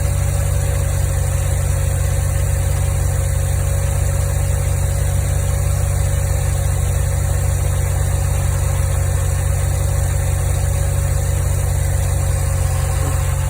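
Mazda RX-7 FD3S's twin-rotor 13B rotary engine idling steadily. The engine has been diagnosed as drawing coolant into its combustion chambers (water-eating).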